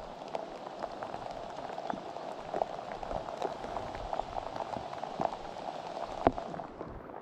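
Steady rain falling close by, with many separate drops ticking on a nearby surface; one sharper tick about six seconds in.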